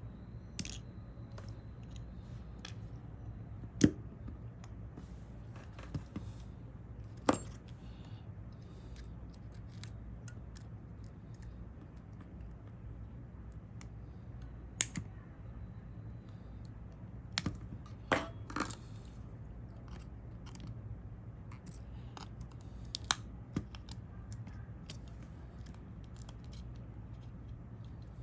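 Small metal repair tools clicking and tapping against the parts of a smartphone being taken apart: a dozen or so sharp, scattered clicks, the loudest about four seconds in, over a steady low hum.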